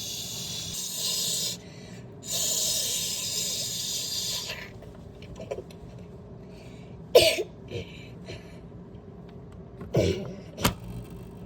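Washing machine spraying water in with two hissing bursts, then a few sharp knocks in the second half.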